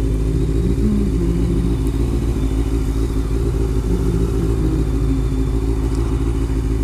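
Honda CBR motorcycle engine running at steady revs, a low even drone with no rise or fall in pitch.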